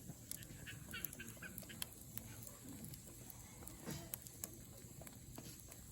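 Wood campfire crackling, with small sharp pops at irregular moments.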